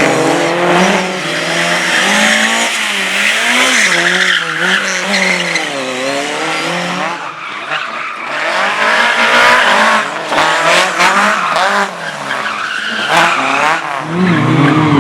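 Race car engine revving hard up and down as the car is driven through a slalom, its pitch rising and falling again and again, over a hiss of tyre noise. Near the end a louder, deeper engine comes in.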